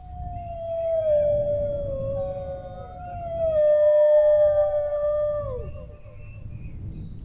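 Dogs howling: long, slowly falling howls, a lower voice overlapped by higher ones, the lower howl sliding down and breaking off near the end.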